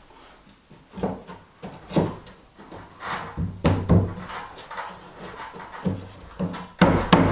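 Irregular wooden knocks and thumps of tongue-and-groove pine boards being handled and fitted into place, with the loudest knocks near the end.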